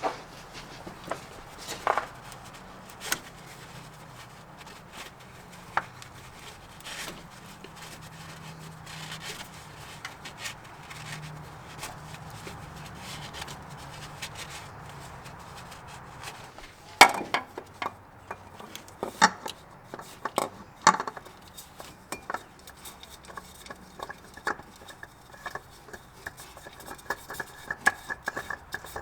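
Scattered clicks and knocks of tools and parts being handled during an oil change, with a louder run of knocks about two-thirds of the way through and quick light clicks near the end.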